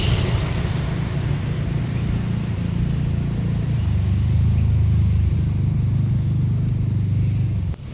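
Off-road vehicle engine running close by, a low steady rumble whose pitch drops a little about halfway through and then holds.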